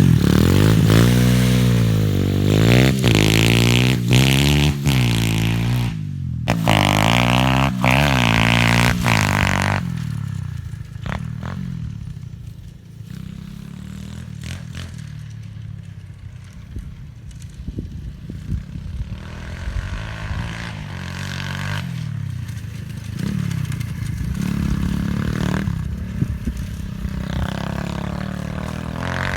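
Pit bike engine revved hard again and again for about the first ten seconds, its pitch rising and falling. It then settles to a quieter, low steady running, with a few lighter revs later on.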